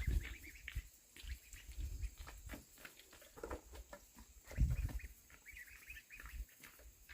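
Ducklings peeping, many short high chirps, over low thumping and rustling of handling or movement.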